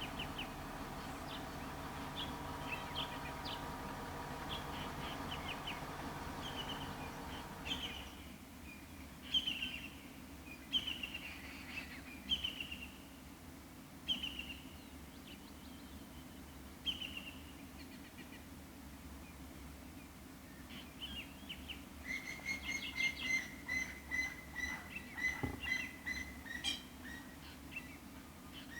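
Wild birds calling: a series of short falling chirps repeated every second or so, then a quicker run of repeated clear notes near the end. A steady low hum sounds under the calls for the first few seconds and stops about eight seconds in.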